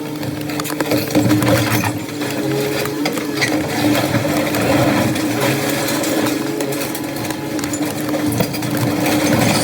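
A machine engine runs steadily with a constant hum, while scattered knocks and metallic clatter from demolition work sound over it.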